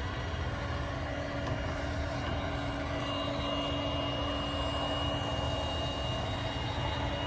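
Roomba Combo 10 Max robot vacuum running on high suction across carpet: a steady motor and suction drone with a constant hum, and a high whine that grows stronger about three seconds in.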